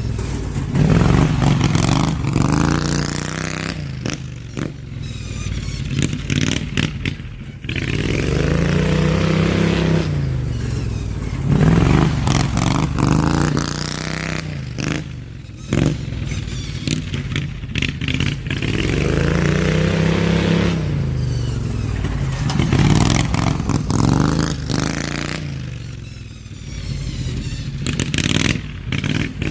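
Slightly modified Briggs & Stratton V-twin lawn-tractor engine revving up and easing off over and over as the machine laps. The exhaust note climbs and falls in pitch roughly every four seconds, growing louder and fainter with each pass.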